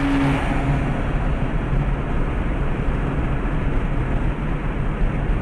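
Car driving: steady engine hum and road noise.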